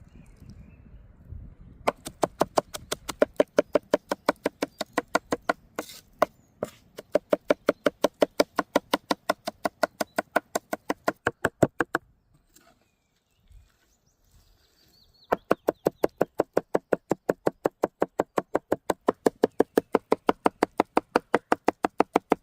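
Knife chopping rapidly on a cutting board, quick even strokes about five or six a second, in two long runs with a pause of about three seconds between them.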